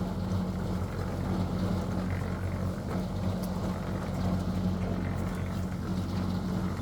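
Engine running at a steady speed, a constant low drone that does not change.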